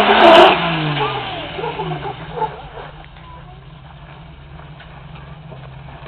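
Jeep Wrangler YJ engine revving hard under load on a rock climb, very loud for the first second, then easing off over a couple of seconds to a steady low run.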